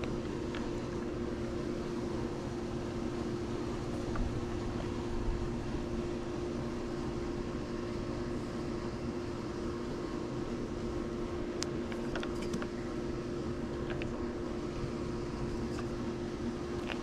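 Swimming pool pump motor running with a steady hum while it draws water through the vacuum hose during pool vacuuming. A couple of faint clicks come partway through.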